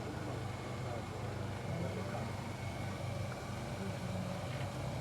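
Car engine running at a steady idle, a low even hum.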